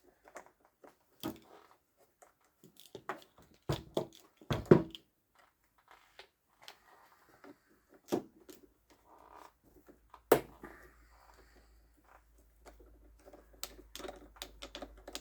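Irregular clicks, knocks and light rubbing of plastic and metal parts and hand tools being handled while a robotic mower's wheel-motor gearbox is taken out. The loudest knocks come about four and a half seconds in and again near ten seconds.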